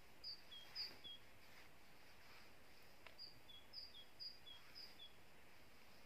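Near silence with faint bird chirps: short, high two-note calls, a higher note then a lower one, a couple just after the start and a run of four from about three to five seconds in. A few faint soft scrapes of a snow shovel in deep snow lie underneath.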